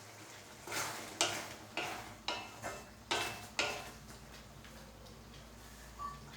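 A spoon scraping and stirring through chana masala in a cooking pan: about seven quick strokes over three seconds, then a lull.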